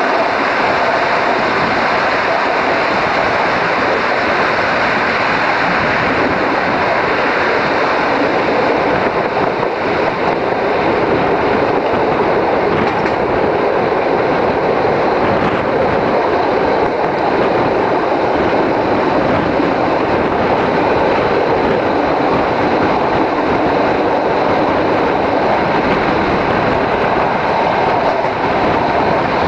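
ALn668 diesel railcar running along the line, heard from an open window: a steady, loud noise of the train's wheels on the rails and its running gear.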